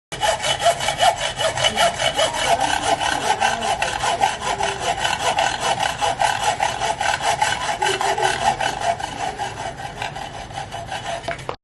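Milwaukee M12 cordless band saw cutting through metal stock: a steady sawing grind with a rapid, even ticking, cutting off suddenly near the end.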